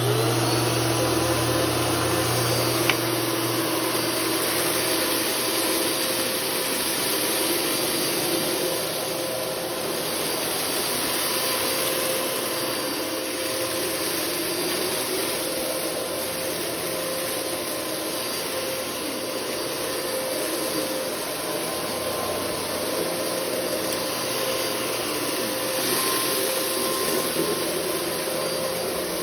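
Bissell CleanView Multi-Cyclonic 9595A 12-amp upright vacuum cleaner running steadily, its motor a constant whine.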